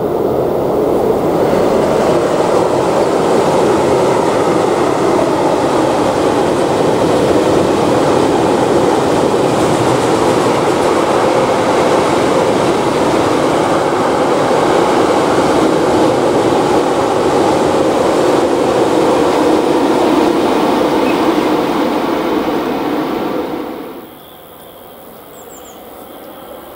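Freight train of open box wagons rolling past at speed: a loud, steady rolling noise of steel wheels on rail. It stops abruptly about 24 seconds in. A much quieter sound follows, rising slowly as an electric passenger train approaches from a distance.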